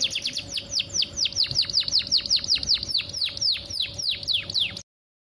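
Female canary calling: a rapid series of sharp, downward-sweeping chirps that gradually slow from about six to about three a second, then stop abruptly near the end.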